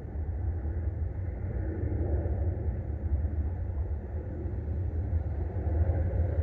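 A steady low rumble that holds even throughout, with no separate claps or bangs.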